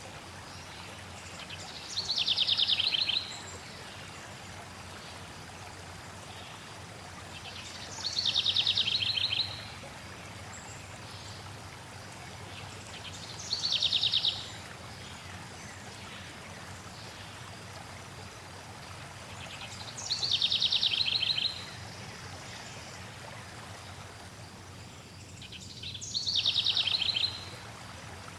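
Flowing water running steadily, with a songbird singing a short, fast, slightly falling trill five times, about every six seconds.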